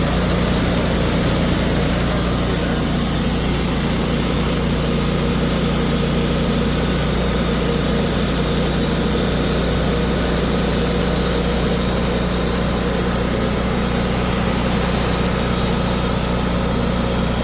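Bandsaw sawmill's engine running steadily under load while the band blade slowly cuts through a large oak round.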